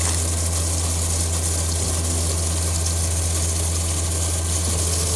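Optical lens edging machine running with a steady low motor hum as it starts up to cut a spectacle lens to a new frame shape.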